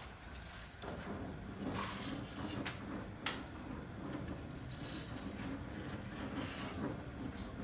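Construction work: a steady low machine hum that starts about a second in, with a few scattered sharp knocks and clicks.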